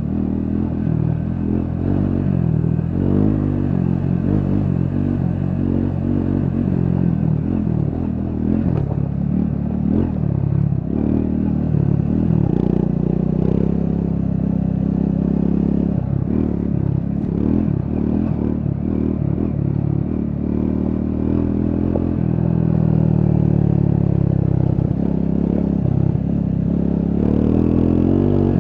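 Triumph Scrambler 400 X's single-cylinder engine running under way, its pitch rising and falling with the throttle.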